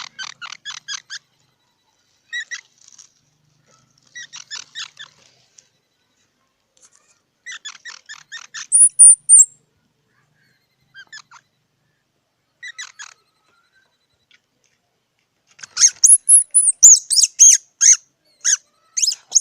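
Squirrel chattering in short bursts of rapid chirps, several a second, with one loud high squeal about nine seconds in and a dense run of loud, high, swooping squeaks in the last few seconds.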